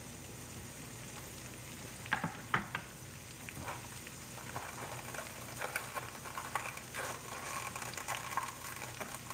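Sliced onions and chopped garlic frying in foaming extra virgin coconut oil in a skillet: a quiet, steady sizzle with scattered pops and crackles.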